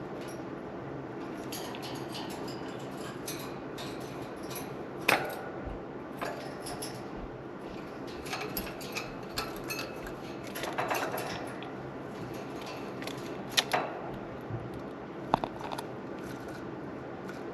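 A small bird-bath fountain running steadily, with sharp clicks and clinks now and then as budgies bathe in it, the loudest about five seconds in and twice near the end.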